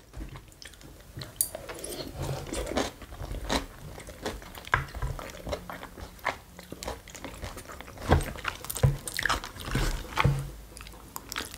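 A person chewing and crunching food, with short, irregular crunchy bites.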